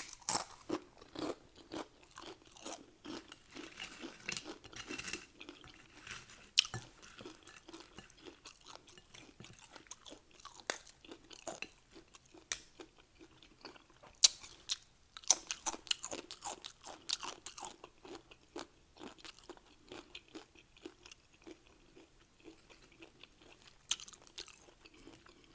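A person chewing Doritos nachos close to the microphone: crisp tortilla-chip crunches with quieter chewing between, in thick runs around the start and again about fifteen seconds in.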